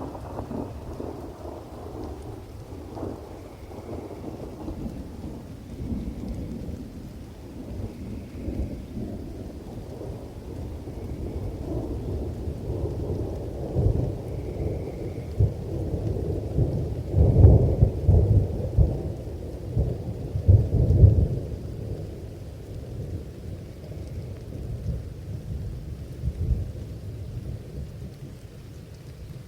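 Rain falling with rolling thunder: low rumbles come and go, building to their loudest peaks a little past halfway before dying away.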